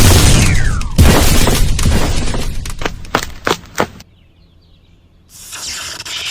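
Crash and clatter of falling debris after an explosion. A heavy crash comes about a second in, followed by scattered sharp impacts that thin out and stop about four seconds in. A soft steady hiss begins near the end.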